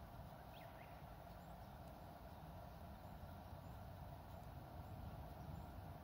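Faint outdoor background with a steady low hum, and two or three short, quick bird chirps about half a second in.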